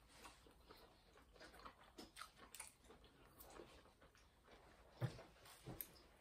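Faint chewing of pizza: soft, irregular mouth clicks and smacks, with one slightly louder smack about five seconds in.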